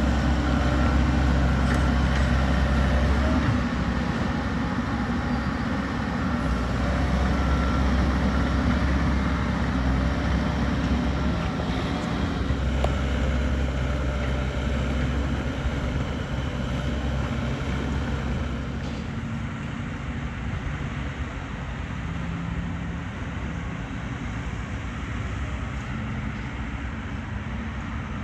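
Low hum of a vehicle engine running steadily, swelling and easing over several seconds, over a wash of road traffic; it grows a little quieter past the middle.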